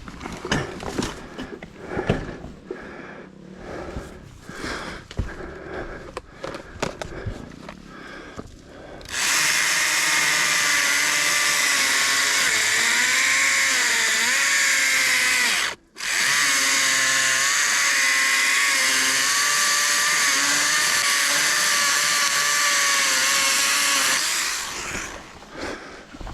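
Irregular knocks and rustling for about nine seconds, then a small handheld Stihl battery saw runs with a steady high whine for about fifteen seconds. Its pitch dips briefly once, and it stops for a moment about halfway through before running on.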